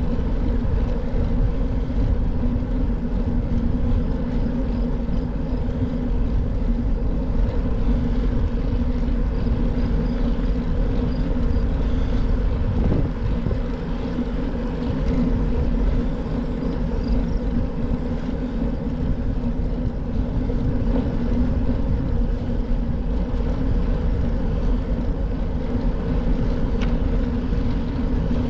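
Steady rumble of wind on the microphone and tyres rolling on pavement while riding a bicycle, with a low steady hum.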